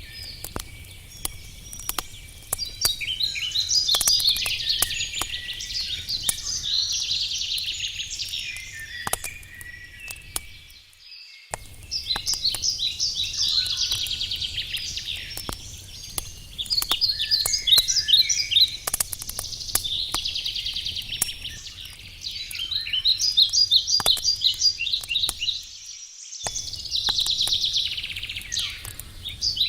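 A songbird singing repeated fast trilled phrases over the snapping crackle of a wood campfire. The sound cuts out completely for a moment twice.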